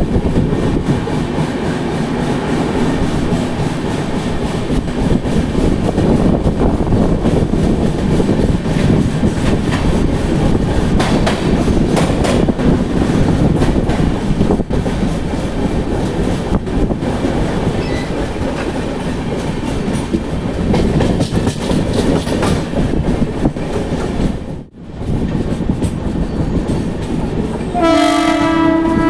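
Running noise of a moving express train: a steady rumble with wheel-on-rail clatter, broken by a brief drop about 25 seconds in. Near the end a train horn blows a steady multi-note chord.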